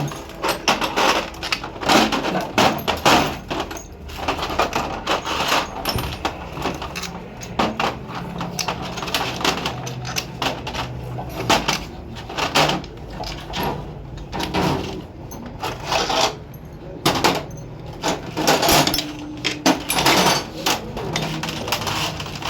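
Metal engine parts and hand tools clinking and knocking irregularly as a rickshaw engine is worked on.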